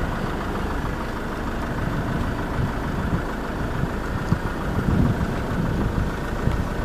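Safari vehicle's engine running steadily at idle, a low even rumble.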